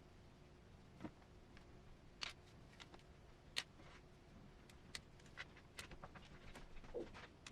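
Faint, scattered clicks and taps of small hard plastic model parts being handled and worked, a few to a second or so apart, with a slightly louder knock near the end.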